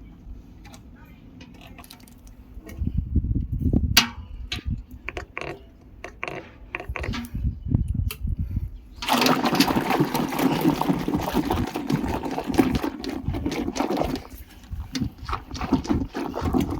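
Water splashing and sloshing in a container as shampoo is diluted and worked up into foam, with handling knocks. The water sound is heaviest for about five seconds past the middle.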